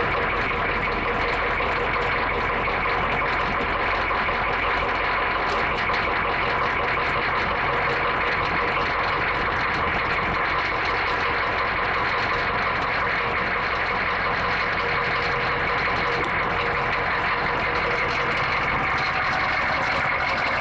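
1986 Chevrolet M1008 CUCV's 6.2L GM Detroit Diesel V8 idling steadily just after a cold start, running smoothly.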